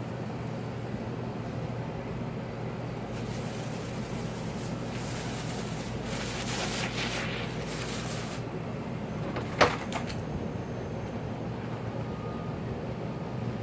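Travel trailer's electric power awning motor running with a steady low hum as the awning extends, with one sharp click about ten seconds in.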